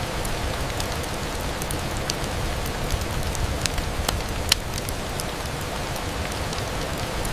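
Steady rain on a window mixed with a fireplace crackling: an even hiss over a low rumble, with scattered sharp ticks and one louder snap about four and a half seconds in.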